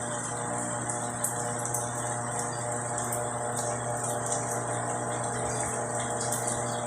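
Repaired washing machine running with a steady hum while its pump sends water out; it runs smoothly and quietly, with no knocking, the sign that the replaced bearing is sound.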